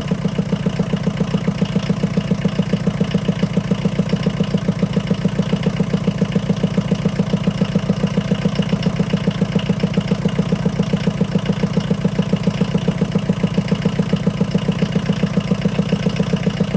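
VW Rabbit pickup's 1.6-litre four-cylinder diesel engine idling steadily with an even, rapid pulse, running after its rebuild.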